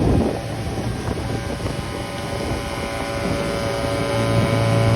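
Motorboat engine running steadily, with wind noise on the microphone; the engine note drops just after the start and picks up again near the end.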